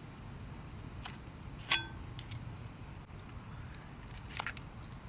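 Metal clinks of cooking gear: one sharp ringing clink about two seconds in and a few softer clicks later, over a steady low rumble.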